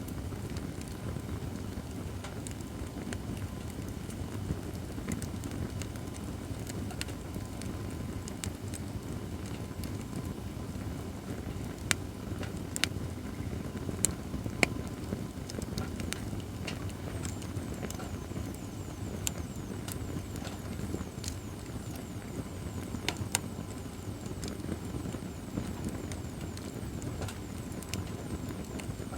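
Acacia firewood burning in a fire-pit stand: a steady low rush of flame with scattered sharp crackles and pops. A few louder pops come near the middle.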